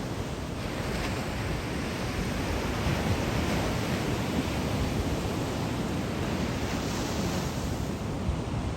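Surf from a typhoon swell breaking on a beach: a continuous wash of waves, swelling about a second in and again near the middle and toward the end.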